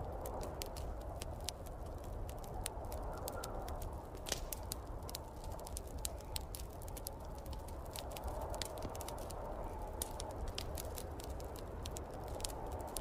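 Wood fire crackling, with many irregular sharp pops, over the steady blowing of a snowstorm wind that swells and eases every few seconds.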